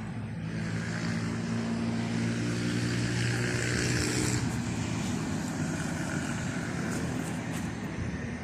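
A motor vehicle passing by. Its engine hum and tyre noise swell to a peak about three to four seconds in, then fade away.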